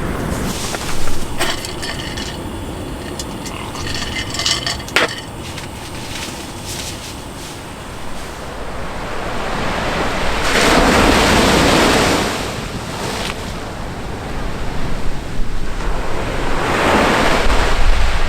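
Sea surf washing onto the shore, with wind on the microphone; the surf swells up twice, about ten seconds in and near the end. Sharp knocks about a second in and again around five seconds in are the loudest moments.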